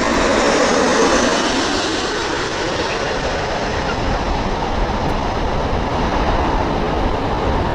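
Jet airliner on final approach passing close by: a steady broad roar of engine noise that eases a little after the first couple of seconds.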